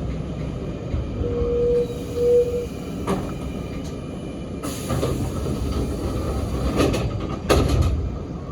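Sanyo Electric Railway 3050-series electric train running, a steady rumble with a short steady squeal between one and three seconds in. Several sharp clacks come in the second half.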